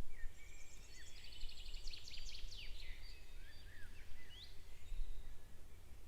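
Several songbirds singing: rapid trills and short rising chirps, busiest in the first half, over a steady low rumble.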